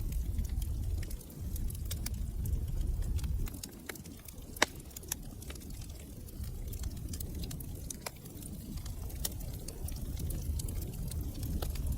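Wood fire crackling: irregular sharp pops and snaps over a low rumble of burning. One louder pop comes a little before the middle, while the rumble briefly dies down for a few seconds.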